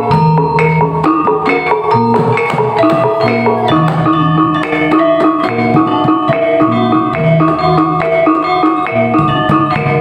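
Topeng Ireng dance music: tuned struck metal percussion repeating a short melody over a steady beat of drums.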